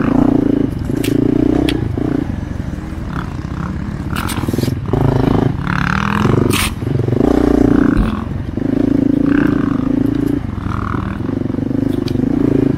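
Dual-sport motorcycle engine heard from on board, revving up and backing off again and again, pulling for a second or two at a time, while riding a tight wooded trail. Brief clattering knocks break in several times.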